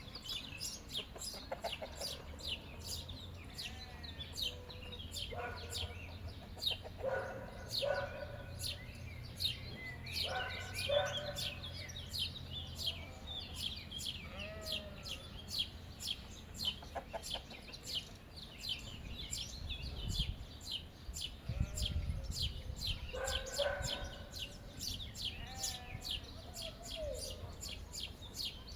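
Chickens clucking, in short calls at several moments, over a steady train of rapid high chirps.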